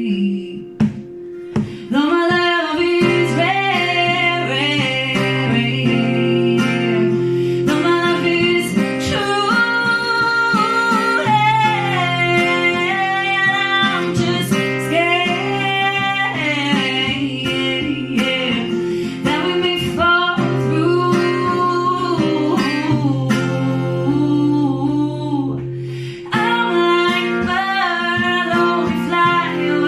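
A song: singing over strummed acoustic guitar, the guitar dropping out briefly about a second in.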